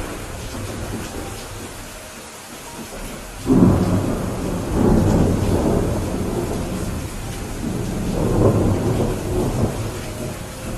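Thunderstorm: steady rain with a sudden crack of thunder about three and a half seconds in, rumbling on in swells and slowly dying away near the end.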